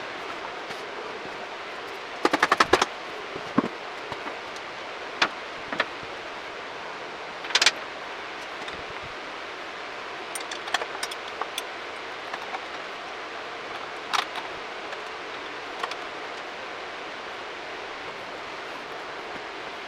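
Hand tools and small metal parts clicking and clinking now and then while the front mudguard is worked on, over a steady hiss. There is a quick run of clicks about two seconds in, and a few more bunched clinks near the middle.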